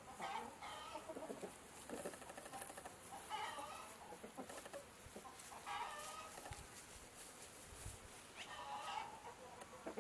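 Chickens clucking: a handful of short calls spread through, fairly faint, over a steady background hiss.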